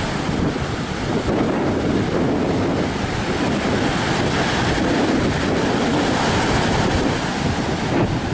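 Strong wind buffeting the microphone over rough surf breaking on the beach, a steady loud rush of wind and waves.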